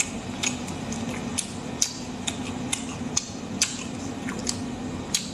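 Close-miked chewing of braised spicy squid: sharp wet mouth clicks and smacks about twice a second, over a steady low hum.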